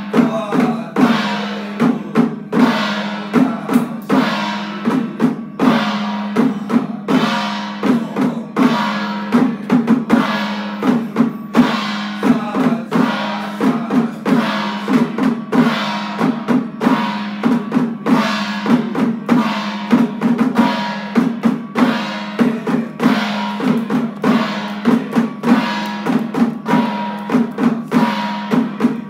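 Temple-festival procession percussion: drums struck about twice a second, each stroke with a ringing metallic tail, over a steady low tone.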